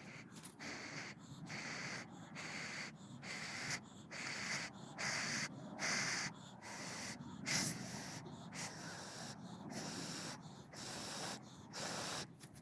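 A person blowing in short, regular puffs, about one a second, into the drilled hole of a Finnish candle log to fan a smouldering ember into flame.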